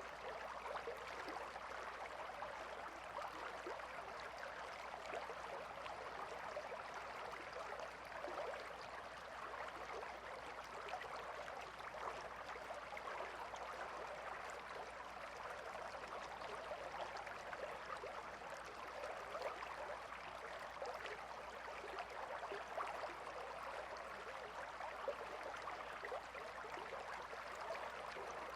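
Calm river flowing: a steady, even rush of water with fine splashing detail throughout.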